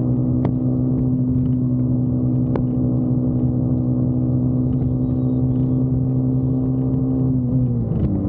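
Motorcycle engine running at a steady cruising speed, a constant droning note; near the end the note drops and wavers as the engine slows.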